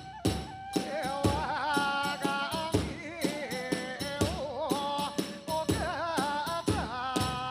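Kagura hayashi music: a taiko drum beats a steady rhythm while hand cymbals jangle and a high bamboo flute plays a wavering melody with strong vibrato.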